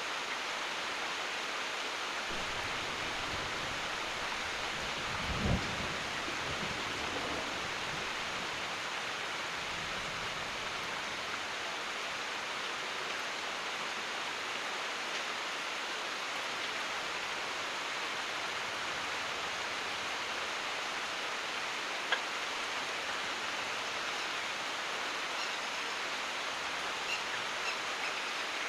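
Steady heavy rain, with a low roll of thunder that starts about two seconds in, peaks around five and a half seconds and fades away by about ten. A few sharp drops tick out near the end.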